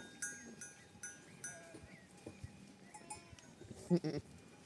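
Bells on grazing flock animals clanking several times, ringing metallically. About four seconds in, one loud bleat comes from the flock.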